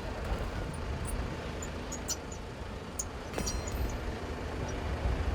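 Outdoor background rumble, low and steady, with a few faint clicks and a short high squeak about three and a half seconds in.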